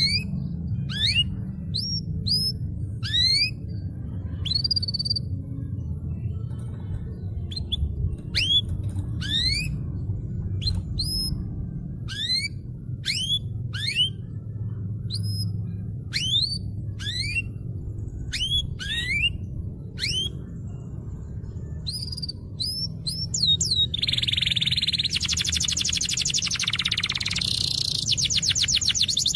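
Domestic canary singing: a string of separate rising whistled notes, one or two a second, which switch about 24 seconds in to a fast, continuous rolling trill. A steady low hum lies underneath.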